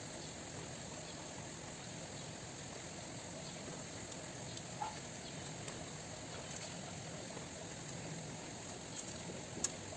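Steady low background hiss with a few faint clicks and taps, and one sharper click near the end.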